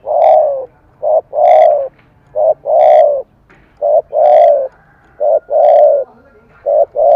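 Spotted dove cooing loudly and steadily in a voice keepers call 'thổ cấn sấm'. Six two-part phrases come about every one and a half seconds, each a short coo followed by a longer, slightly falling one.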